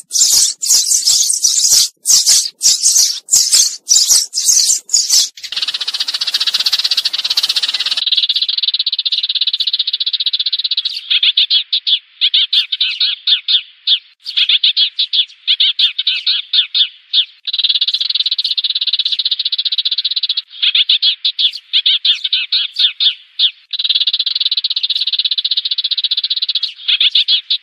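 Eurasian tree sparrows chattering in fast runs of chirps with brief pauses between runs, as sparrow flock calls played to lure sparrows. The first few seconds are brighter and crackly, broken by short gaps.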